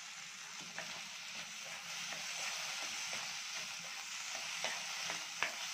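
Small onions, tomatoes and green chillies sizzling in oil in an iron kadai while a spatula stirs them, with a few short knocks of the spatula against the pan.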